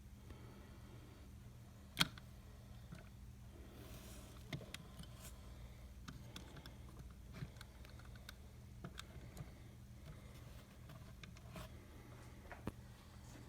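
Steady low electrical hum with scattered light clicks and taps, the sharpest about two seconds in.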